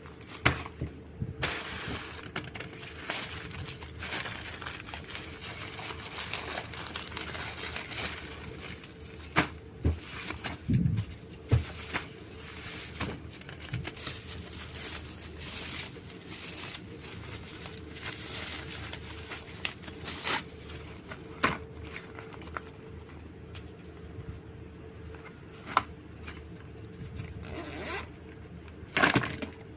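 Packaging being handled and opened: rustling, crinkling, tearing and scraping, broken by scattered sharp clicks and knocks.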